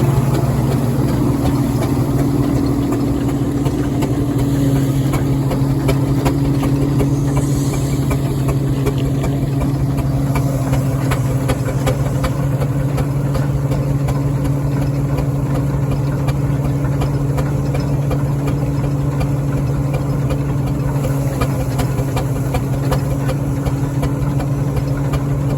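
Marshall steam engine belt-driving a threshing machine, running at a constant speed with a steady hum that does not change.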